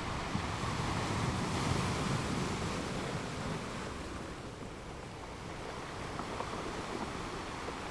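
Rushing noise of surf, swelling over the first couple of seconds and easing from about halfway through.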